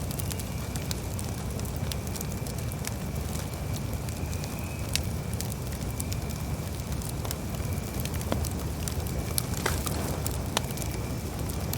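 Campfire burning: scattered sharp crackles and snaps over a steady low rumble.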